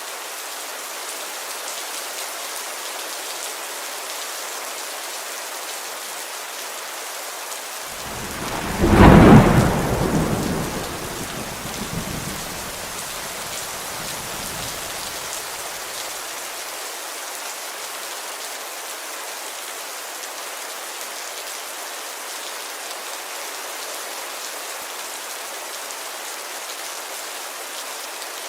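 Steady heavy rain on a window, with one loud thunderclap about eight seconds in that rumbles on and dies away over several seconds.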